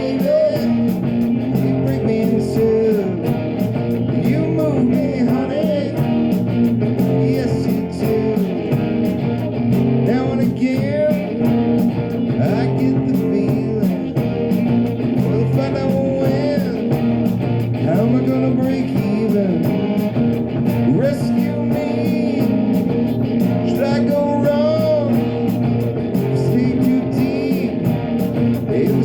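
Live rock cover band playing a song: electric guitar over bass and drums, with a sung vocal line.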